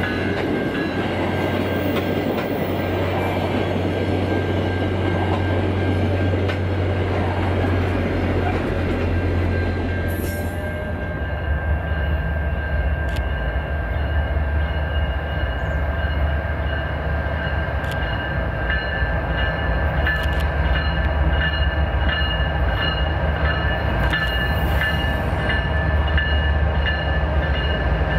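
Diesel train running by the track: the locomotive's low, steady engine drone under rolling wheel and rail noise, with thin, steady high-pitched tones. The upper hiss drops away about ten seconds in, while the drone carries on.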